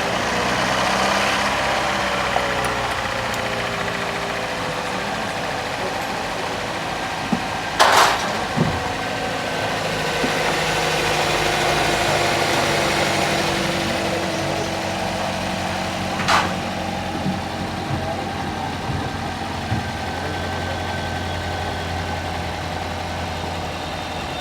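Toyota Corolla GLi engine idling steadily just after a start, its tappets (valve clearances) freshly adjusted. Two short sharp clicks, about eight and about sixteen seconds in.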